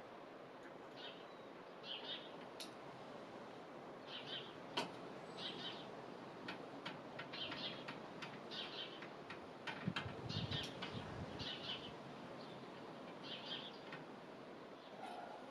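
Faint, short high chirps repeating roughly once a second, among light clicks and taps of small hardware being handled, with a brief low rumble about ten seconds in.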